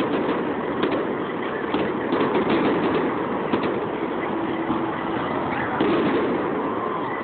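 Aerial fireworks bursting and crackling, a steady dense rattle of many quick pops with no single bang standing out.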